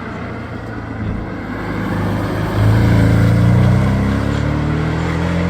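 Historic competition car's engine accelerating hard, its note rising steadily and getting louder about two and a half seconds in.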